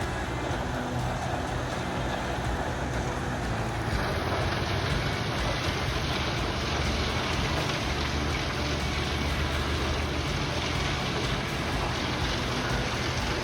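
Tractor-driven wood chipper running, a steady engine drone under a broad rushing noise. The rushing grows stronger about four seconds in.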